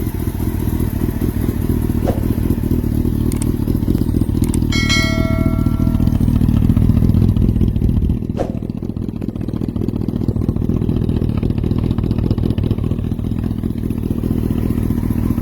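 Sport motorcycle engine idling steadily after warm-up, its idle dropping a little about eight seconds in as it kicks down from the fast warm-up idle. The owner wonders whether an exhaust leak is in the sound. A short high tone sounds briefly about five seconds in.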